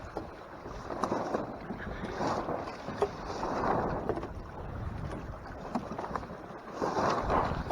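Water rushing and splashing against the hull of a Hobie Tandem Island sailing kayak under sail, coming in irregular surges, with wind buffeting the microphone.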